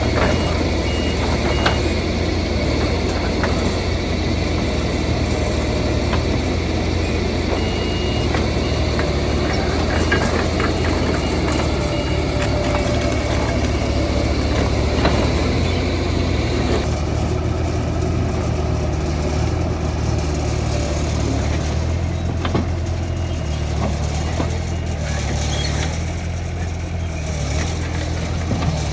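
Diesel engine of heavy earthmoving machinery running steadily with a low drone, with a few sharp knocks scattered through it.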